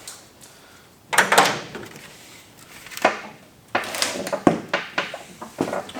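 Irregular knocks, clanks and scraping from hand tools and parts being handled in a truck's engine bay, with a longer scrape about a second in and several sharp knocks in the second half.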